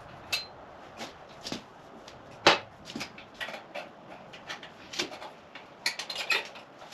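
Scattered metal clicks and clinks of pliers working on the exhaust springs of a Honda CR250 two-stroke's expansion chamber, with one sharp knock, the loudest, about two and a half seconds in.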